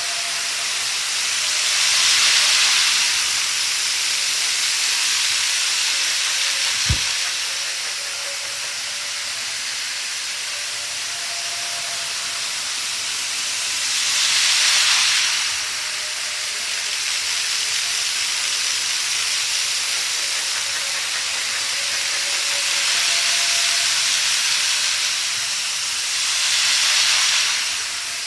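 Model train running around a layout track: a steady rolling hiss that swells each time the train comes close, three times about twelve seconds apart, with a single sharp click about seven seconds in.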